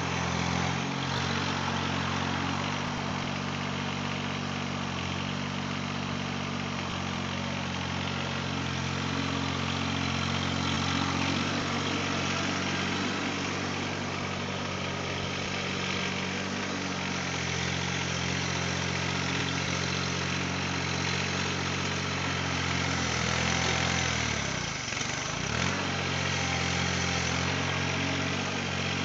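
Mahindra eMax 20S compact tractor's diesel engine running steadily while working. About 25 seconds in its pitch sags briefly, as under a heavy load, then comes back up.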